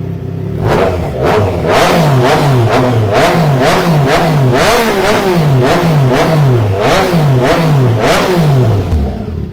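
Triumph Trident 660's inline three-cylinder engine, breathing through a full aftermarket exhaust with a Black Knight muffler, blipped again and again in quick short revs, about two a second, settling back to idle near the end.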